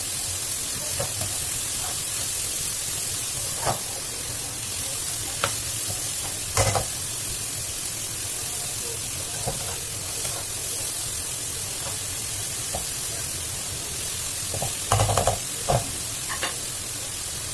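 Cauliflower rice sizzling steadily in a hot wok as the water in the cauliflower cooks off, with a few scattered knocks, the loudest a short cluster near the end.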